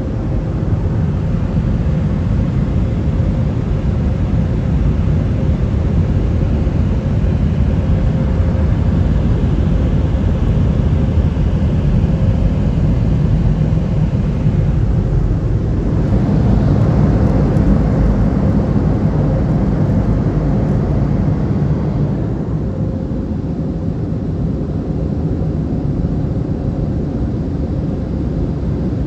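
PDQ Tandem SurfLine in-bay automatic car wash running, a steady loud rush of machinery and spray. It swells and brightens a little past the middle, then eases off.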